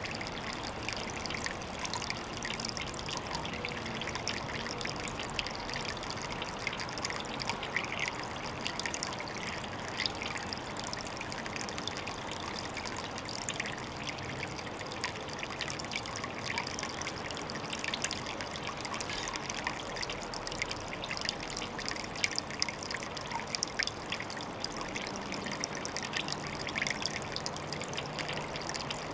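Water trickling and splashing into a pond: a steady, unbroken patter of many small splashes.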